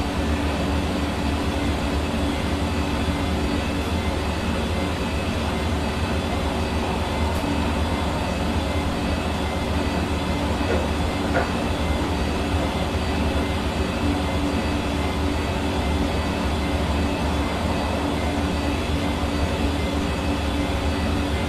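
Hair dryer running steadily: a constant rush of blown air with an even motor hum.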